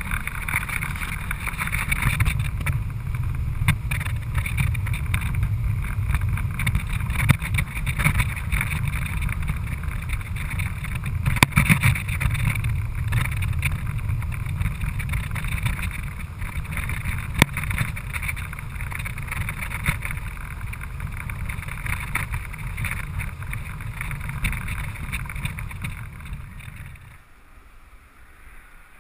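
Vehicle driving along a snow-covered road, a steady low rumble with tyre hiss and occasional sharp knocks, fading down near the end.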